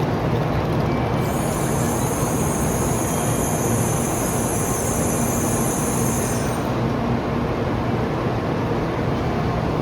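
Shinkansen train moving along the platform: a steady rumble, with a high-pitched squeal added from about a second in until nearly seven seconds in.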